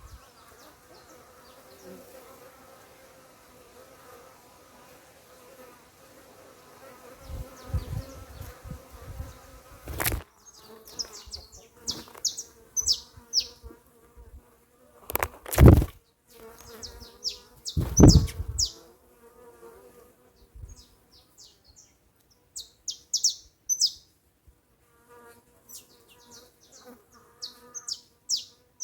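Bees buzzing around fruit, steady at first and then on and off, with short high bird chirps in several clusters. Several loud low thumps break in, the loudest in the middle.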